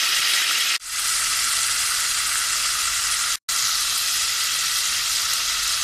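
Crushed garlic and ginger sizzling in hot ghee in an aluminium pot, with a steady hiss as the water in them cooks off. The sizzle cuts out briefly twice.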